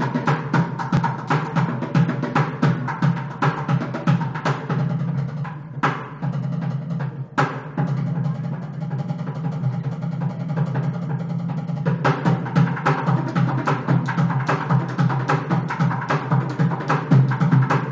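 Several drummers playing a fast, dense drum rhythm. The beating thins out to a quieter stretch about six seconds in and comes back full about twelve seconds in.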